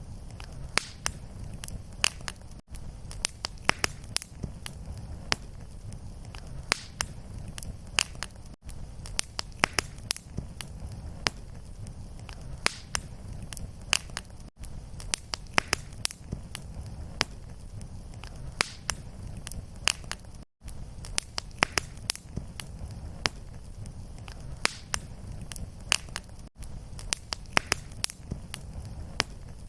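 Fireplace wood fire crackling, with frequent sharp pops over a steady low rumble of the flames. The sound briefly drops out about every six seconds.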